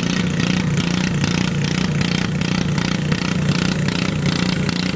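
Garden tractor engine running steadily, with a regular pulsing about three times a second.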